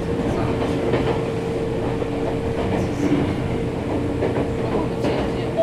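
Nankai 7100-series electric train running, heard from inside the carriage: a steady rumble with a constant hum and wheels clacking over rail joints.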